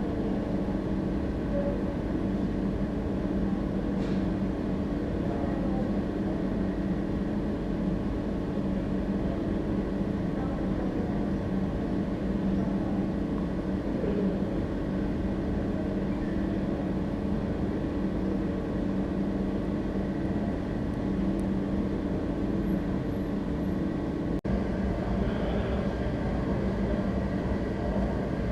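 Steady low mechanical hum with a few held tones and no hammer strikes; it drops out for an instant once, about 24 seconds in.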